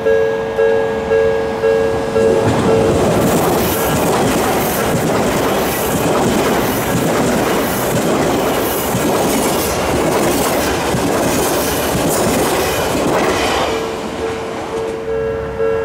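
A level-crossing alarm rings in a steady pulsing two-tone pattern. About two and a half seconds in, an Odakyu electric commuter train (3000 series coupled with 1000 series) passes close by, its wheels clacking over the rail joints and drowning the alarm for about ten seconds. The alarm is heard again near the end.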